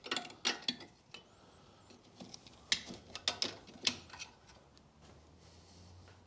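Metal clicks and clinks as the front brake caliper's spring clip is pushed in and worked off: several sharp taps in the first second and a few more around the middle.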